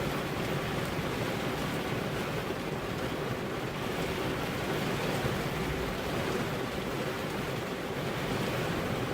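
Heavy rain pouring steadily, a dense even hiss with no break or single drop standing out.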